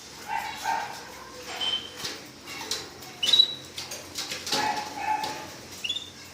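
Red agate canaries calling in short, separate chirps, some brief high thin notes among lower, fuller calls.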